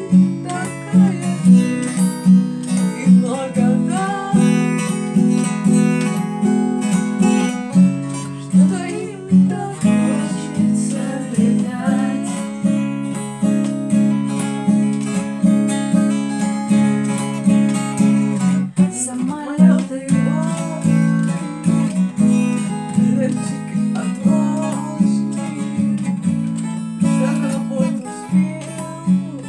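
Acoustic guitar strummed in a steady rhythm, playing chords of a song accompaniment, with a brief break in the pattern a little past halfway.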